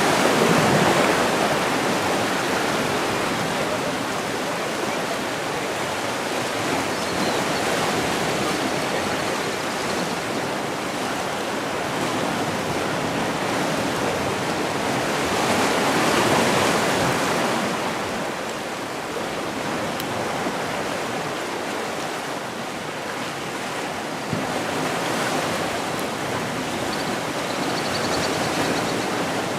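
Sea surf: waves washing in and drawing back in a steady rush, with louder swells just after the start and again around fifteen seconds in.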